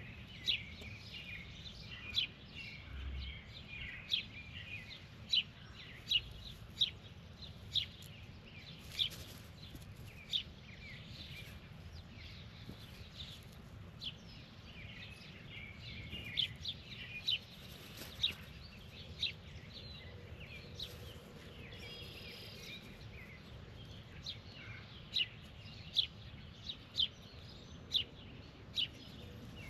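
A bird repeatedly giving short, sharp chirps, roughly one or two a second with a few pauses, over a steady low outdoor rumble.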